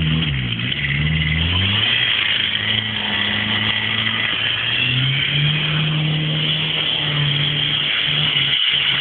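Fiat Uno 1.5 diesel engine revving hard while the car drifts on snow. The revs swing up and down for the first two seconds, settle, then step up about five seconds in and are held high, with a steady hiss over the engine.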